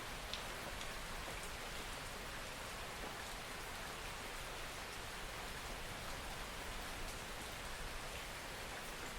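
Steady rain falling on a surface, a soft even hiss with a few faint individual drops ticking.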